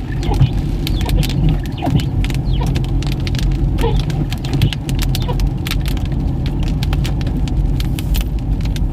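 Heavy rain hitting a Toyota Fortuner's roof and windscreen as a dense run of sharp, irregular ticks, heard from inside the cabin over the car's low, steady engine and road hum.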